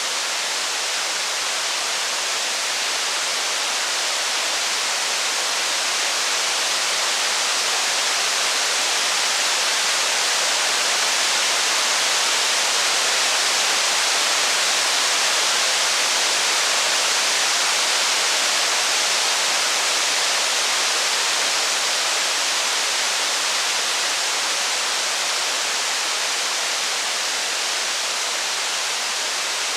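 Steady rain, an even hiss with no distinct drops or crackles, that swells slightly around the middle and eases again.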